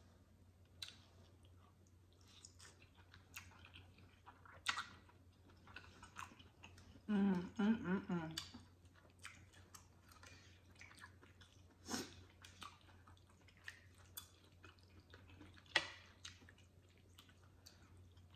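Close-up chewing of chitterlings: wet smacking and sharp mouth clicks, with a short hummed, voice-like sound about seven seconds in.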